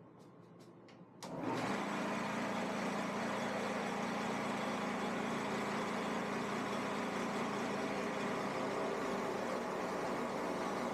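A few faint clicks, then about a second in the Shopsmith's motor switches on and runs up, then runs steadily at a constant speed, ready to drive the Forstner bit.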